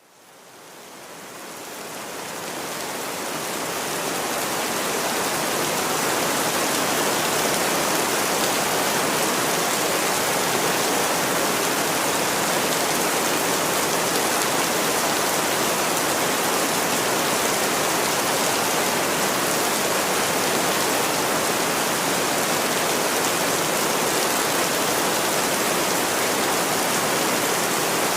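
Steady heavy rain, a dense even hiss of falling drops, fading in over the first few seconds and then holding level.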